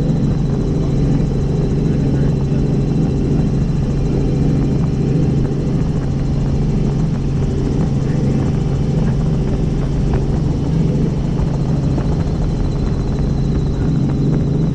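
Helicopter in flight: steady drone of the turbine and rotor heard from the cabin, holding a constant level.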